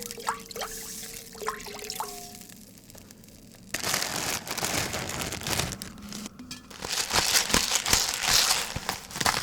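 Plastic food packaging being crinkled and torn open: a sudden crackly rustle starts a little over halfway in and grows busier near the end. Before it come a few light clicks.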